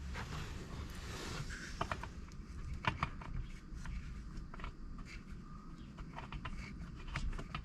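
Scattered light clicks and taps of small parts and tools being handled during chainsaw repair, a few a second and uneven.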